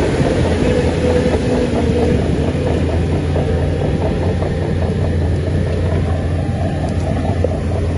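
Shantui crawler bulldozer at work: its diesel engine runs steadily with a deep hum, over a rapid clatter from the steel crawler tracks.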